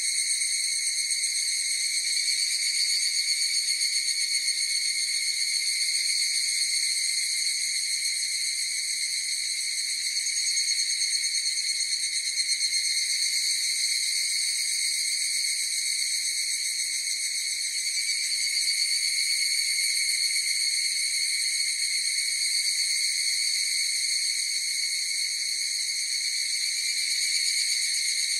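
Cicadas buzzing in one steady, unbroken high-pitched drone that swells and eases slightly in loudness.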